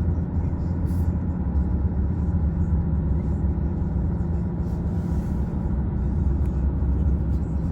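Car cabin noise while driving: a steady low rumble of engine and road noise with a faint even hum.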